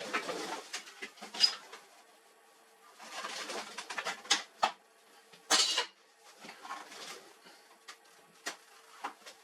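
Irregular clicks, knocks and short rattling bursts of hard plastic and metal printer parts being handled.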